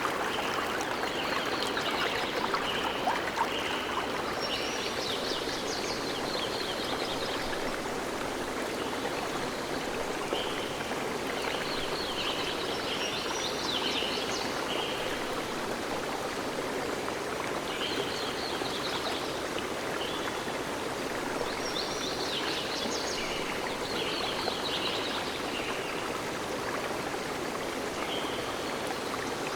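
Steady rush of running water, a stream or waterfall, with a songbird singing short chirping phrases that come back every few seconds.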